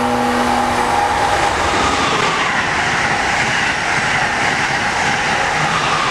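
Amtrak high-speed electric train passing at speed: a steady horn chord cuts off about a second in, then loud rushing wind and wheel noise with a whine that slowly falls in pitch as the train goes by.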